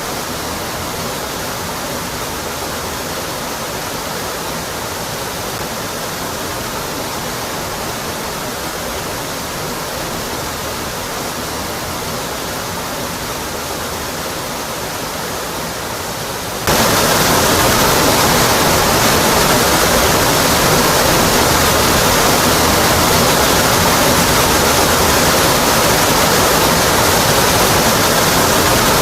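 Waterfall cascading onto rock, a steady rushing roar. About two thirds of the way through it jumps abruptly louder and brighter, as at a cut to a closer recording, then holds steady.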